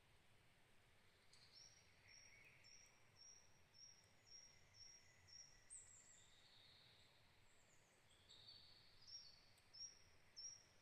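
Faint birdsong: one bird repeats a short, high note about twice a second for several seconds. Other birds' high chirps and short whistles come in around and after it.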